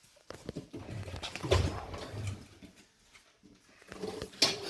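Scattered clicks and small plastic rattles as a car light's wiring plug is worked loose, with a brief low voice-like sound about a second and a half in.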